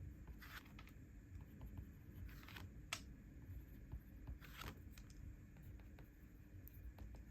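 A few short, soft scratchy strokes and a light click or two from paper and stationery being handled on a desk, over faint room hiss.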